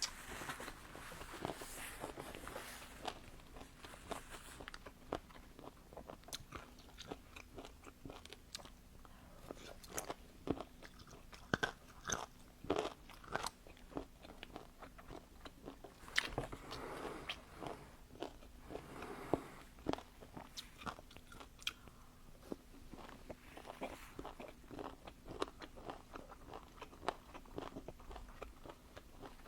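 Crunchy food being bitten and chewed close to the microphone, with many short crisp crunches, coming thickest about a third of the way in and again past the middle.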